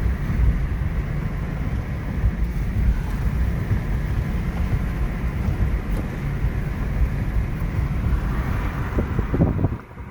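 Car driving on the road: a steady low rumble of engine and tyres, which drops off suddenly near the end.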